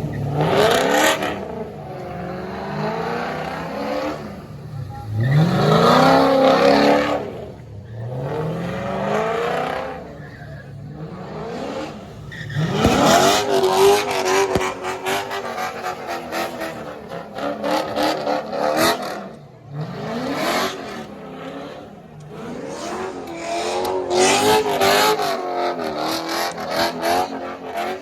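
Car engines revving hard again and again, each rev sweeping up in pitch to high rpm and dropping back, about half a dozen times over.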